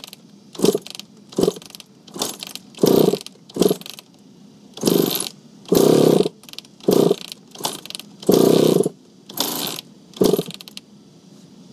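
Suzuki RM80 two-stroke single being kick-started on choke, about a dozen kicks in a row, each a short burst of the engine turning over without catching. The bike is having starting problems.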